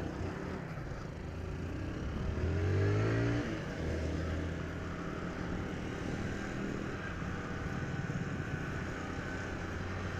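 Motorcycle engine under way, rising in pitch as it accelerates about two seconds in, then running steadily.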